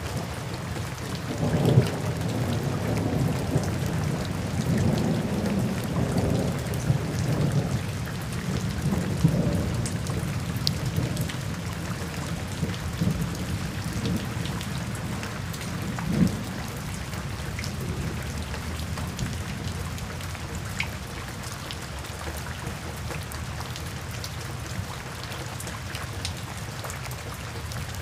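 Steady rain from a stock rain sound effect, with rolling thunder. The thunder rumbles strongest through the first ten seconds or so, with a sharper crack near 2 s and another near 16 s. Afterwards the rain carries on more quietly.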